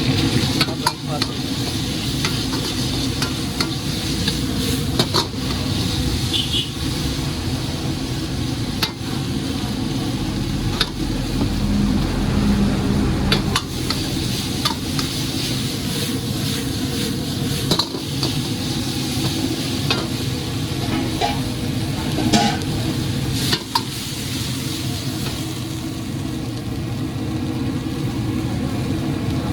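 Chicken lollipops sizzling in a pan as they are stirred, with a spatula clicking against the pan now and then, over a steady low rumble.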